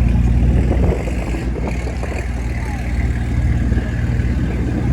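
Mercedes-AMG twin-turbo V8 engine running, its low note easing back about a second in, with a faint whistle from the turbos.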